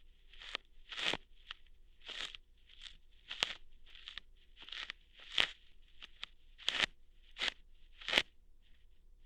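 Ear-hair plucking ASMR sounds made close to the microphone: a series of short, crisp crackling snaps, each like a hair being pulled out, coming irregularly at about one or two a second.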